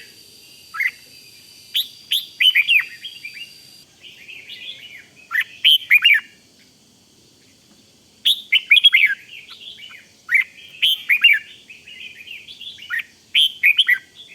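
Red-whiskered bulbul singing: short, quick warbled phrases repeated about every two to three seconds, with brief pauses between them.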